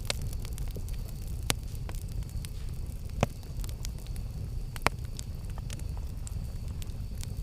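Campfire burning, with a steady low rumble under irregular crackles and a few sharp pops, the loudest about a second and a half, three, and five seconds in.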